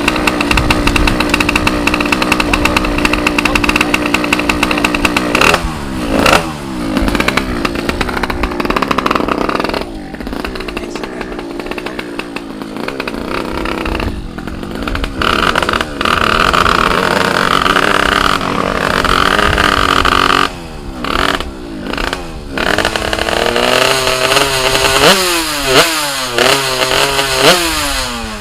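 Race-tuned Yamaha F1ZR two-stroke engine bored to 116cc, held at a steady high rev for about five seconds, then revved up and down again and again, with several quick throttle blips near the end.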